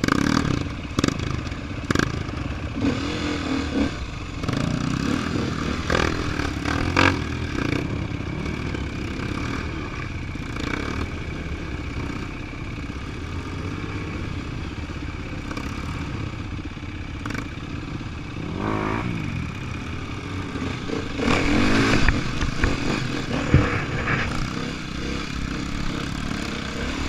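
Off-road dirt bike engine revving up and down again and again, with clattering and scraping knocks, as the bike struggles to get through a rut.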